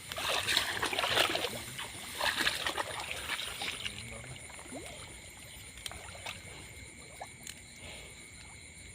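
Water splashing and sloshing for the first few seconds, then dying down to faint water movement with a few small knocks.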